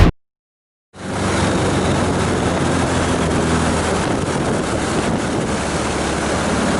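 Wind buffeting an action camera's microphone on a moving motorcycle, with the engine's low drone underneath. A short burst comes at the very start, then the steady riding noise starts about a second in.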